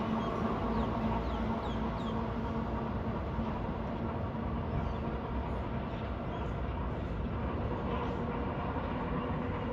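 A train running: a steady mechanical hum with a held low tone, and a few faint high squeaks in the first couple of seconds.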